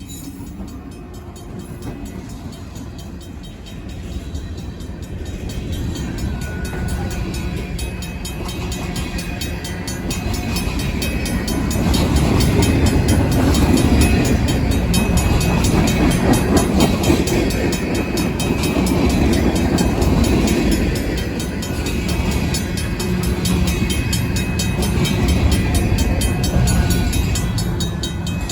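A Union Pacific diesel freight train passing a grade crossing, growing louder over the first dozen seconds, then its rumble and the rolling freight cars stay loud. A RACO mechanical crossing bell rings steadily underneath.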